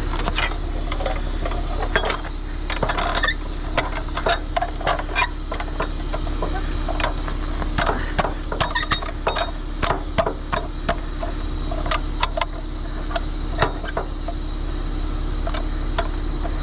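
A heavy truck's diesel engine idling steadily under irregular metallic clinks and clanks of chain and rigging being handled while a winch line is rigged.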